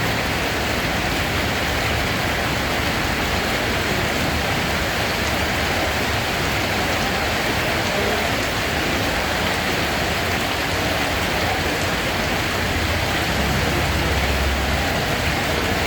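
Steady rain, an even unbroken hiss of drops falling on surfaces, with a low rumble swelling briefly near the end.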